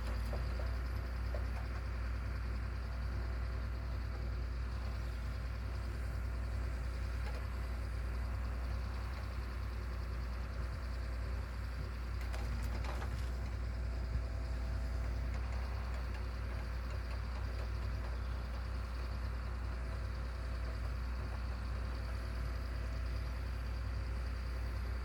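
A heavy machine's engine running steadily with an even low drone, with a few faint clicks about halfway through.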